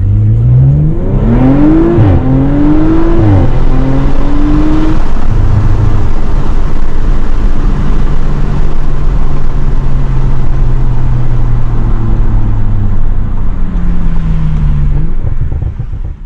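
Audi RS5's twin-turbo V6 with a resonator-delete exhaust, heard from inside the cabin, accelerating hard with two quick upshifts in the first few seconds, then running at steady revs. A slight change in pitch comes near the end, and then the sound cuts off.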